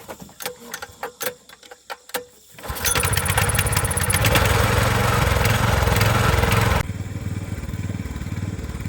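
A few sharp clicks and knocks, then a small boat's motor starts about two and a half seconds in and runs with a steady low pulse. About seven seconds in, its brighter, rattling part drops out and it runs on more quietly.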